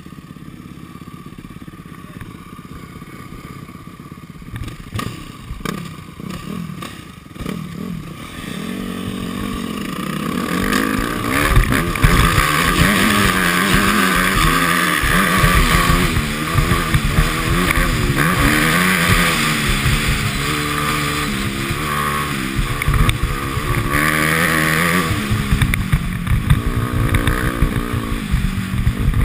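Dirt bike engine: fairly quiet at first with a few knocks, then from about ten seconds in it runs loud, its pitch rising and falling over and over with throttle and gear changes as the bike is ridden.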